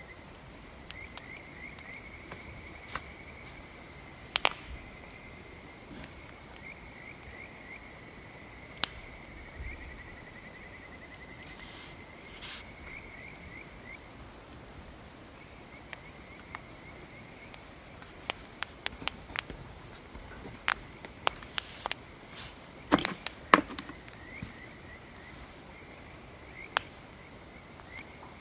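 Wood fire crackling, with irregular sharp pops that come thickest and loudest about two-thirds of the way through. A steady high chirping trill runs behind it.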